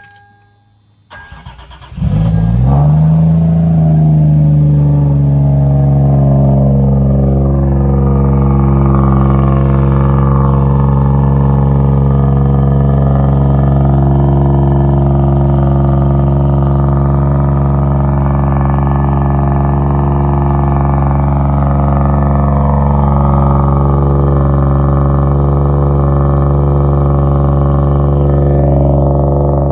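Cold start of a turbocharged 1JZ straight-six breathing through a straight-piped 3-inch exhaust. It cranks briefly, catches about two seconds in with a short flare of revs, then settles into a steady idle.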